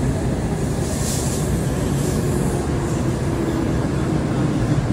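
Shinkansen bullet train rolling slowly alongside the platform: a steady low rumble and hum from its passing cars, with a brief hiss about a second in.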